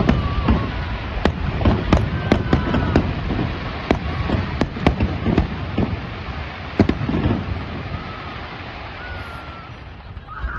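Fireworks display: many loud bangs in quick succession, each with a low rumble, thinning out over the last few seconds.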